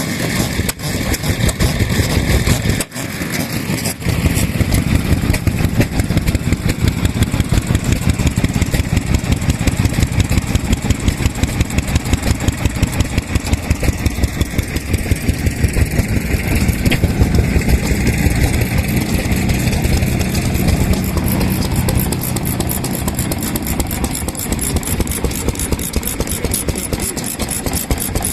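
Vintage stationary farm engine running with a steady, rapid beat of exhaust pulses.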